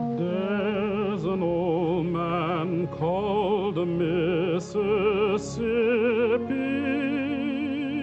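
A deep male voice sings slowly with wide vibrato over sustained orchestral accompaniment, in an operatic style.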